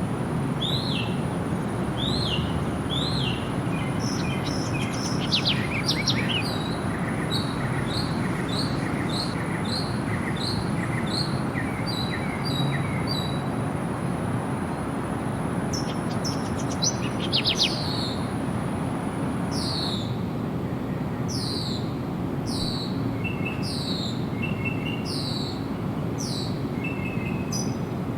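Several birds calling and singing over a steady low rushing background: a run of quick, evenly spaced chirps about two a second, later a series of sharp falling whistles, with softer twittering notes near the end. A thin, steady high tone stops about two-thirds of the way through.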